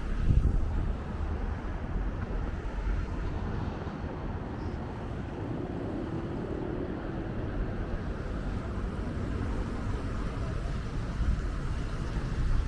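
Steady low rumble of outdoor city ambience, with wind buffeting the microphone in a louder gust about half a second in.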